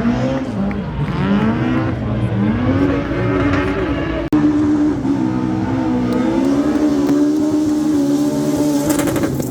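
Rally car engine revving hard through a slalom, its pitch climbing and falling in repeated sweeps, then held at fairly steady high revs after a sudden break about four seconds in, with a short burst of sharp cracks near the end.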